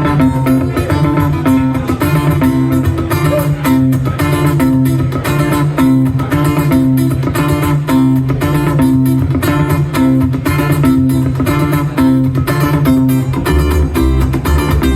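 Live instrumental music: guitars picked in a steady repeating pattern over a held low part, which drops to a lower bass note about thirteen seconds in.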